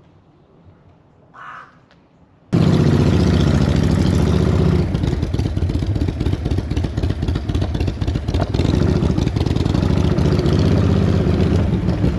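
Motorcycle engine starting up on a cold morning, catching abruptly about two and a half seconds in and then running at a steady fast idle with the choke full out.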